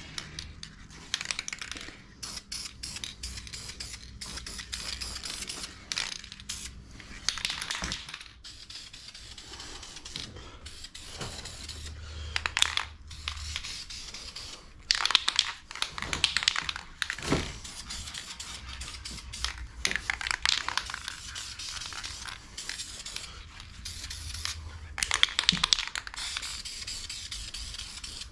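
Aerosol can of high-temperature engine enamel spraying in short, irregular hissing bursts of a second or two, with pauses between.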